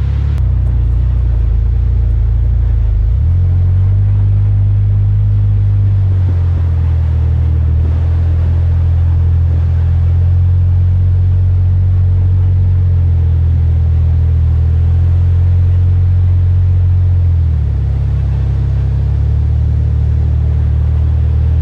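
Jeep Wrangler Unlimited driving, heard from inside the cabin: a steady low engine and road drone that steps up in pitch about three seconds in and drops back near the end.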